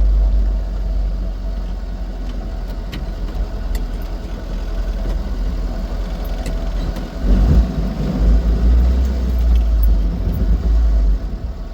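Austin Seven car running, with a heavy low rumble that grows louder about two-thirds of the way through.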